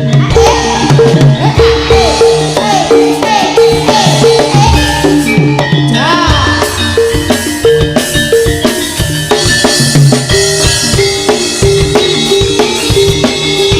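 Live jaranan ensemble music: gamelan-style tuned metal percussion repeating a short melodic figure over busy, steady drumming, with a few gliding high notes about six seconds in.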